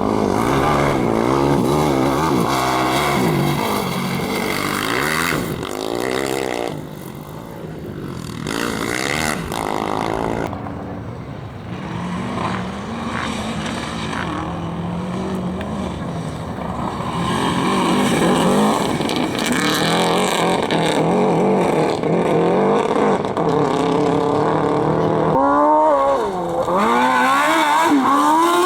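Competition vehicle's engine revving hard and dropping back again and again as it is driven through a dirt slalom course, with quick rev swings near the end.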